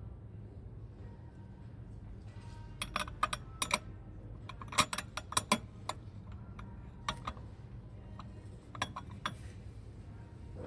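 Light clinks and knocks of hard objects being handled, in several quick clusters, over a low steady hum.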